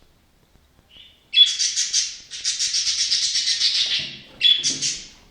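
Budgerigar chattering: a harsh chirp about a second in, then a rapid buzzy run of fast repeated notes lasting about two and a half seconds, and another sharp chirp near the end.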